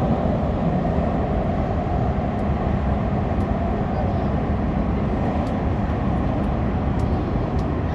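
Subway train running at speed through a tunnel, heard from inside the car: a steady, continuous low rumble of wheels on rail and running gear.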